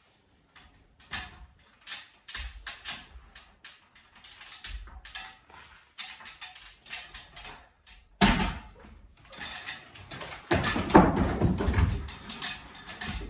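Demolition of a ceiling: irregular knocks and clatters of wood and plaster being pried loose, with a heavy crash of falling debris about 8 s in and a longer clattering fall of debris from about 10 to 12 s.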